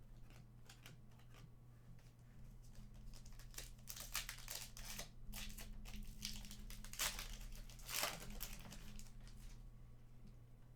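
Crinkling and rustling of plastic trading-card packaging as cards are handled, in a run of short rustles loudest a few seconds in and again near the end, over a steady low electrical hum.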